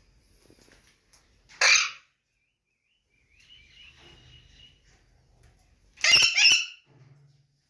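Alexandrine parakeets giving two loud, harsh screeches: a short one about two seconds in and a longer, broken one about six seconds in, with a faint thin whistle between them.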